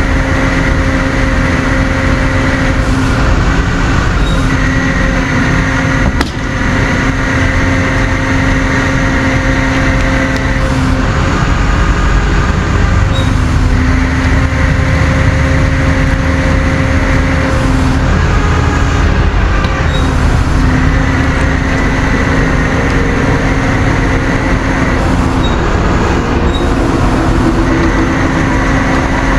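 Tow truck's engine running steadily while its winch pulls a car up onto the truck, with a whine that comes and goes in stretches of a few seconds as the winch is worked on and off. A single knock about six seconds in.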